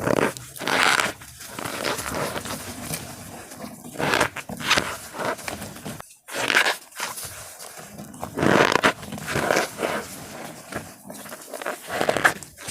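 Blocks of gym chalk being crushed, crunching and crumbling in repeated bursts, with a brief gap about six seconds in.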